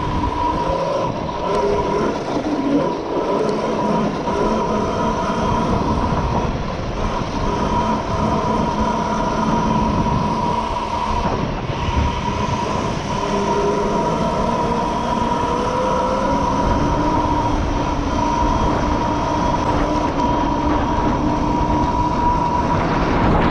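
Mini bike engine running while riding off-road, with a steady whine and the engine pitch drifting up and down with the throttle over a constant rumble.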